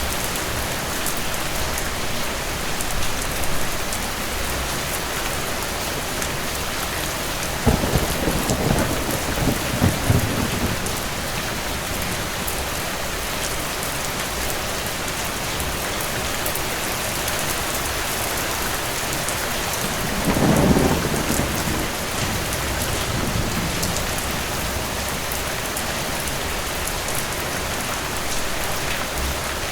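Steady rain falling, with two low rolls of distant thunder: one a little under 8 s in that rumbles for about three seconds, and a shorter one about 20 s in.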